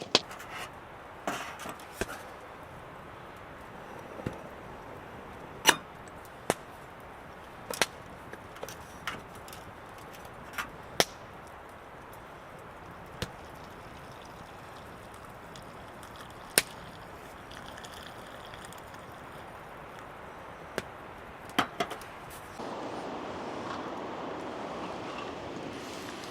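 Wood fire crackling: irregular sharp pops and snaps over a steady hiss. The hiss grows louder near the end.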